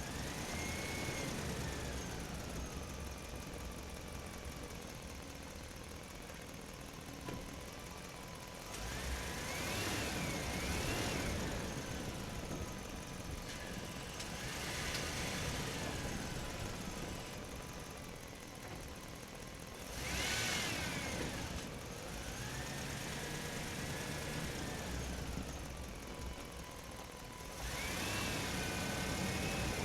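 Truck engine sound running, with repeated revs that rise and fall in pitch.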